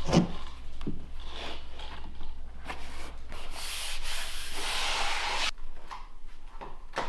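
Faux-wood flooring planks scraping and rubbing as they are slid into place, in several strokes with a longer scrape about halfway through, then a sharp knock near the end.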